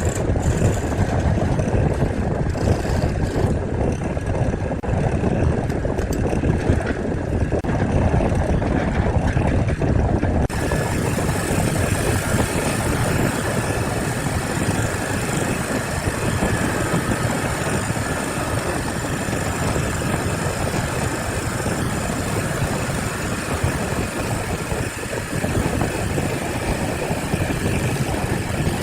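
A motor running steadily, a dense low rumble with no clear rhythm; about ten seconds in the sound abruptly turns brighter and fuller.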